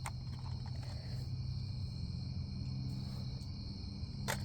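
Steady background ambience: a low hum with a continuous high insect drone, like crickets, over it, and a faint click near the start and again near the end.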